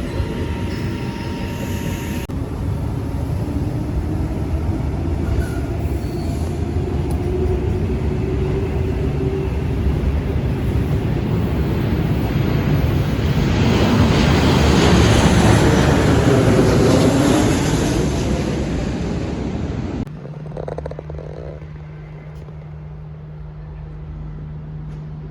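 An electric suburban passenger train running through the station, its rumble and wheel noise building to a peak about fifteen seconds in and then easing off. The sound cuts off abruptly near the end to a quieter steady low hum.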